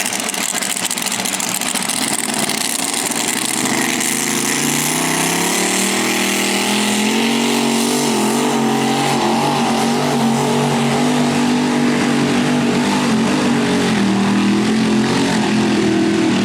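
Mini rod pulling tractor's engine running loud at high revs. Its pitch climbs over a few seconds early on, then holds high and wavers slightly for the rest of the run.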